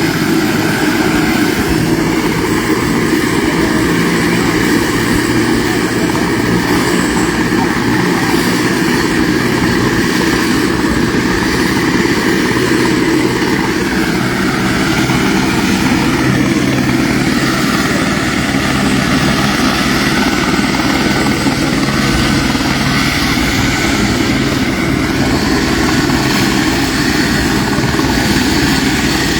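Helicopter running steadily, its engine and rotor loud and continuous throughout.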